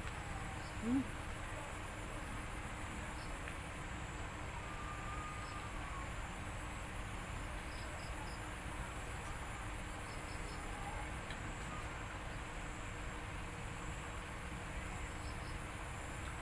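Steady background drone of insects, likely crickets, a constant high-pitched hum over an even hiss, with a brief low sound about a second in.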